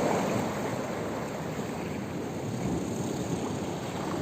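Baltic Sea surf washing on the beach, a steady noisy rush that swells slightly near the start and again near the end, with wind on the microphone.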